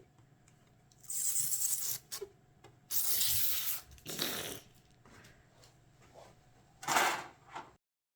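Protective plastic film being peeled off a photo frame, in four rasping tearing pulls, the longest about a second.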